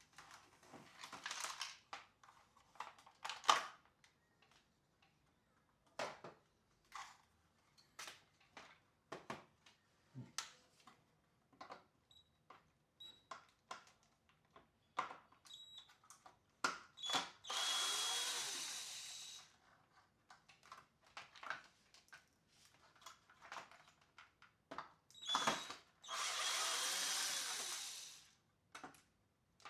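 Small electric screwdriver running in two bursts of about two seconds each, backing out screws, amid scattered clicks and taps of plastic parts and screws being handled.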